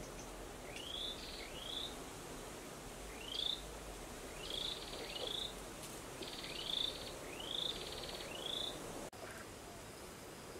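A bird calling: about nine short, high, rising chirps spread over several seconds, some in quick pairs and a few with a brief buzzy rattle. A faint steady outdoor hiss runs underneath.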